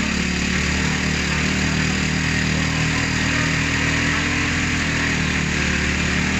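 An engine idling steadily under an even hiss.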